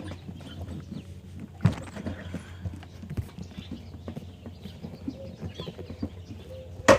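Irregular knocks and clicks of hand work on a minibike as a part is straightened, with two louder knocks, one about a second and a half in and one near the end.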